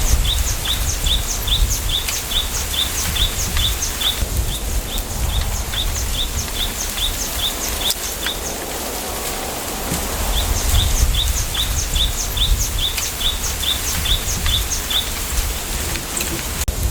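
Bamboo forest ambience: a low wind rumble under a bird's high chirp repeated about four times a second, in long runs that pause now and then.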